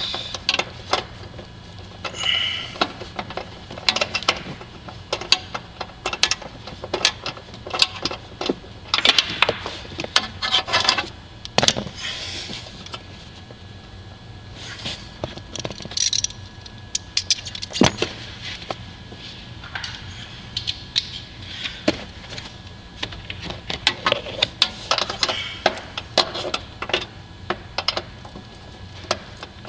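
Irregular clicks and clatter of a hand tool working at a hard-to-reach 13 mm screw, metal and plastic parts knocking against each other.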